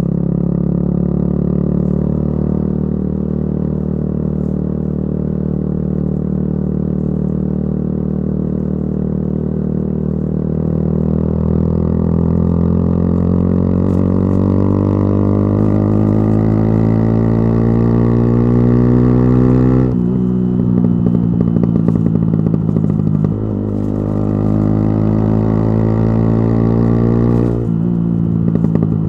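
Yamaha YZF-R125's single-cylinder four-stroke engine running through a modified aftermarket exhaust while riding. The engine note holds steady, then climbs slowly as the bike accelerates. The revs drop sharply about twenty seconds in, with a brief crackle, then climb again and drop again near the end.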